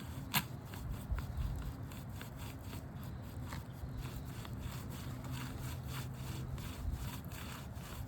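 A hand brush sweeping debris off the roof shingles in quick repeated rubbing strokes, with a sharp click about half a second in.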